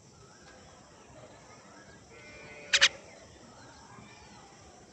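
A bird gives two short, sharp calls in quick succession a little past halfway, over faint chirping.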